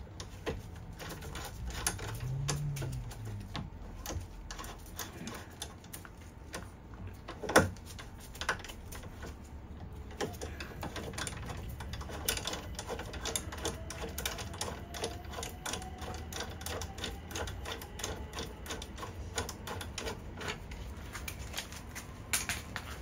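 A riv nut being set with a hand riv nut tool: a long run of small metallic clicks and ticks, with one louder knock about a third of the way in, the clicks coming quicker and closer together in the second half.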